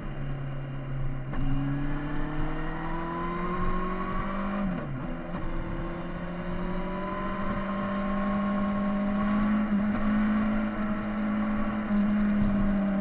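Kawasaki Z1000 inline-four motorcycle engine running under way, its pitch climbing slowly as it pulls, with a short drop and recovery about five seconds in like a gear change.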